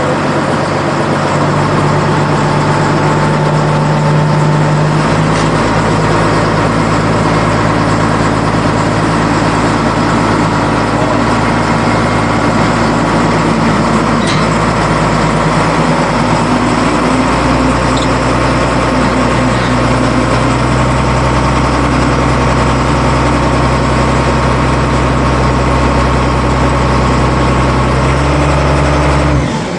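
Boat engine running steadily under way, its low note shifting to a new pitch about 5 seconds in and again around 17 seconds as the throttle is changed.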